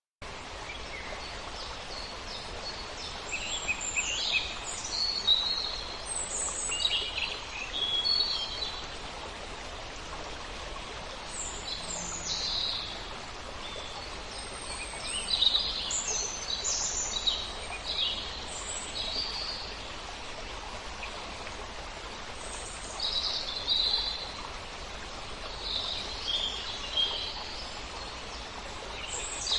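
Small birds chirping in scattered clusters of quick high calls over a steady rushing of wind through leaves; the sound cuts in abruptly at the start.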